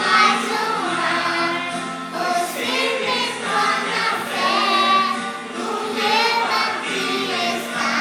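A Christian song in Portuguese: voices singing with vibrato over a steady instrumental backing.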